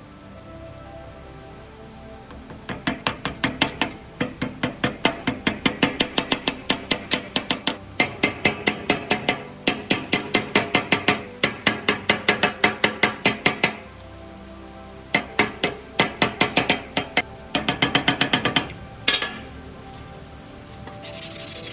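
Rapid series of sharp knocks, about four a second, in several long runs broken by short pauses.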